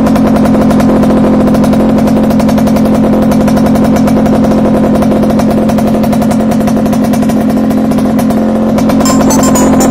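Yamaha RX135's single-cylinder two-stroke engine running at a steady speed through a racing expansion-chamber exhaust, a loud, even note with no revving. A higher ringing tone joins about nine seconds in.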